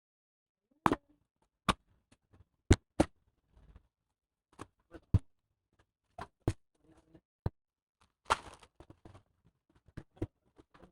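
Irregular sharp clicks and taps of tools and plastic laptop parts being handled, about a dozen in all, with a short scraping rasp about eight seconds in.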